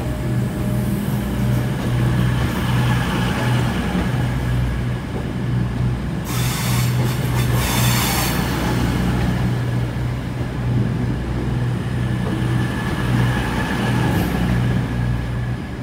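A train running steadily with a deep, pulsing hum, and a hiss of air being released for about two seconds midway.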